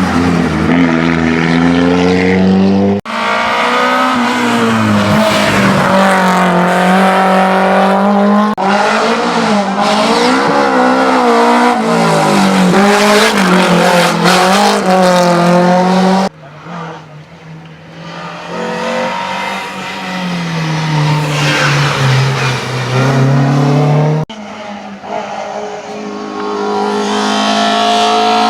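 Hillclimb competition cars racing at full throttle, engines revving up and dropping in pitch with each gear change. The sound cuts abruptly from one car to another about 3, 16 and 24 seconds in. After the middle cut it starts quieter and builds as the next car comes closer.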